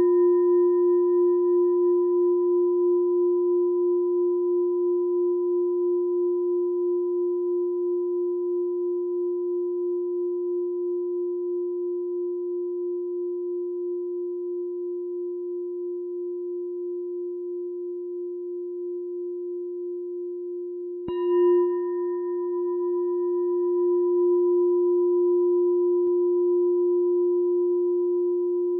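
Meditation bell ringing: one low ringing tone with higher overtones, slowly fading with a gentle wobble. It is struck again about three-quarters of the way through and rings on.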